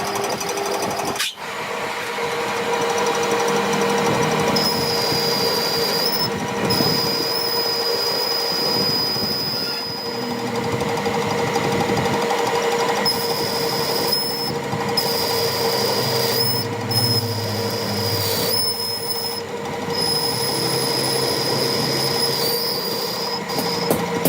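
A workshop machine running steadily, with a high squeal that breaks off and comes back several times.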